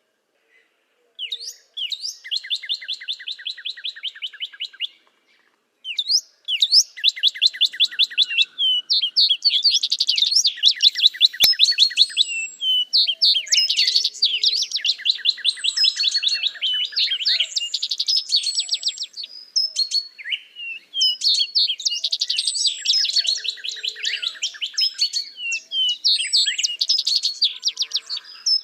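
Small songbirds singing: fast trills of rapidly repeated notes and twittering chirps, several overlapping, with short pauses near the start.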